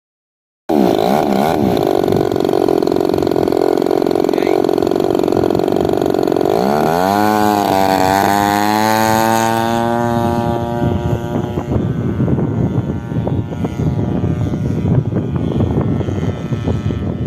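Small gasoline engine of a radio-controlled Cessna 182 model airplane running loud and steady. About six and a half seconds in, its pitch rises sharply as it revs up, and it turns rougher and noisier near the end.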